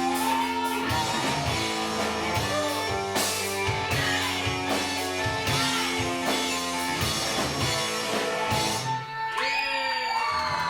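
Rock band playing live, with electric guitar, bass and a drum kit keeping a steady beat. Near the end the drums stop and a final chord rings out as the song ends.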